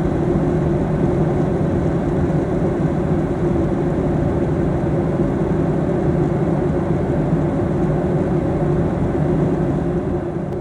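Steady drone of a JAL Airbus A350-900 airliner's engines and airflow heard inside the passenger cabin, with a few steady low hums running through it.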